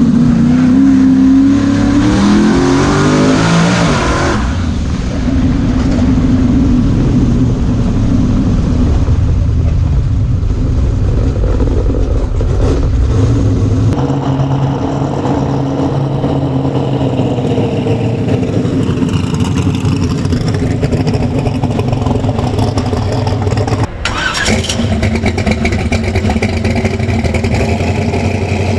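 Turbocharged truck engine accelerating hard, its pitch rising for about four seconds before dropping, then running on steadily under power, with a brief dip and click about 24 seconds in.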